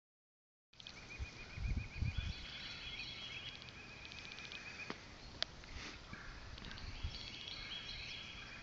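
Songbirds singing: a fast run of repeated chirps and several trills, with a few low bumps on the microphone about a second and a half in.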